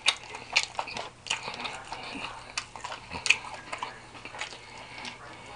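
Close-up eating sounds: a person chewing a mouthful of food with wet lip smacks, heard as a run of irregular sharp clicks, the loudest a few strong smacks within the first three and a half seconds.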